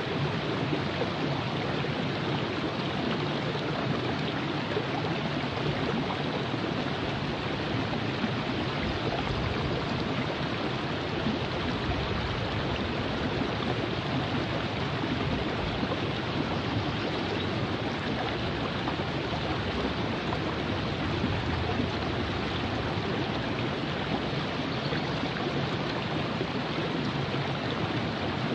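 River water rushing and splashing over rocks in a steady flow, with no breaks or changes.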